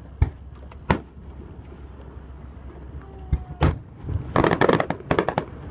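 Fireworks display: several sharp booms of aerial shells bursting, then about four seconds in a dense run of rapid crackling pops.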